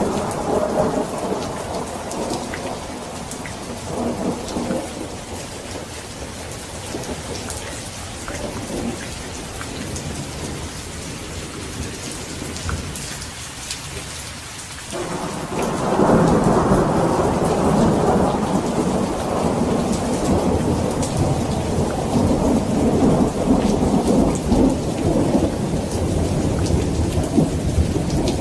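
Thunderstorm: steady heavy rain hissing with a rolling thunder rumble that dies away over the first half. About halfway through a new peal breaks in suddenly and rumbles on, louder, to the end.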